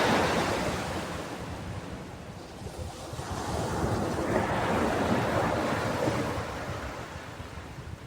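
Ocean waves washing onto a shore: one wash fades over the first couple of seconds, and the next swells about three seconds in and ebbs away near the end.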